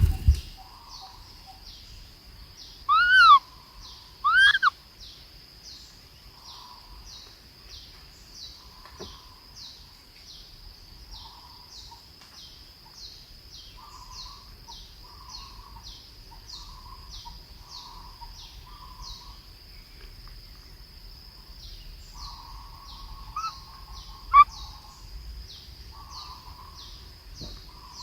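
Birds calling: two loud, arching calls about three and four and a half seconds in, over a high, thin chirp repeated about three times a second throughout, with softer lower calls coming and going. A thump right at the start.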